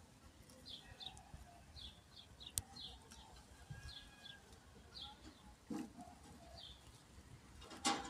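Small birds chirping, short falling chirps repeating every half second or so. A sharp click comes about two and a half seconds in and a thump near the end.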